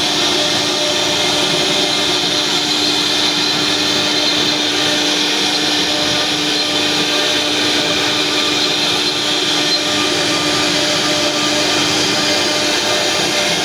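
CNC router running while milling wood: a loud, steady machine whine with a constant hum that does not change pitch.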